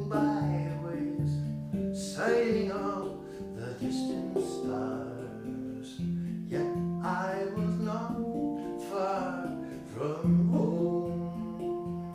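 Acoustic guitar playing a folk song, with plucked notes and a strum every couple of seconds.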